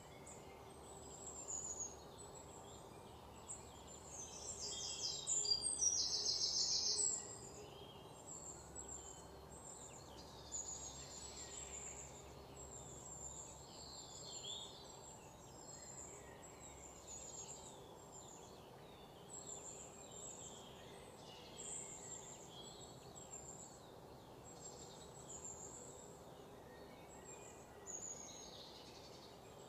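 Small birds chirping in short, high, repeated calls, with a louder fast trill about five to seven seconds in, over a faint steady background hum.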